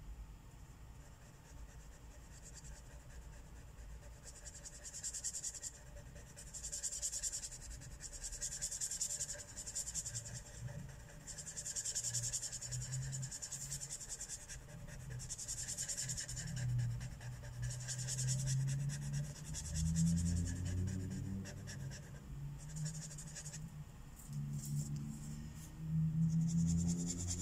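Marker tip rubbing across paper in short repeated strokes about one to two seconds apart, filling in a colouring page. A low droning sound comes and goes in the second half.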